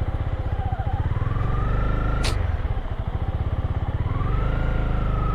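Motorcycle engine running close by under load, its revs dipping through the middle and picking up again, with a whine that rises and falls with the revs. One sharp knock a little past two seconds in.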